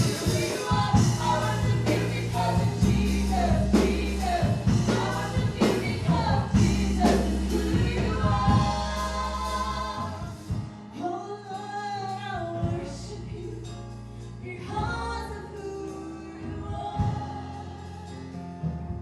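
Live gospel worship music: a band with bass and drums under a choir singing, the drums dropping out about halfway and the music growing softer and sparser, with voices holding long notes.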